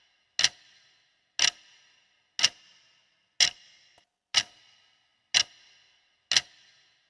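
Countdown-timer sound effect of a clock ticking once a second, seven sharp ticks with a brief metallic ring after each, marking the time allowed to answer a quiz question.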